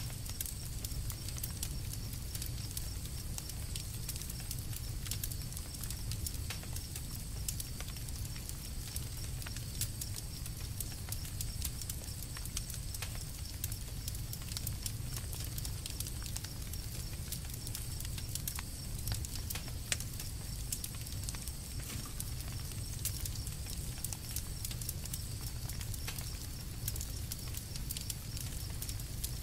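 Campfire crackling steadily, with frequent small irregular pops and snaps over a low rumble.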